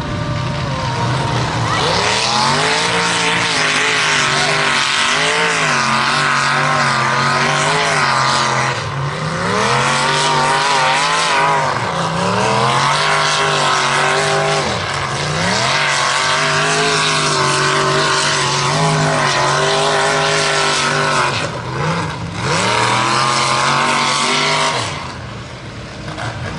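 Mega mud truck's engine running hard and revving up and down many times, the pitch swinging with the throttle. It drops off briefly twice near the end.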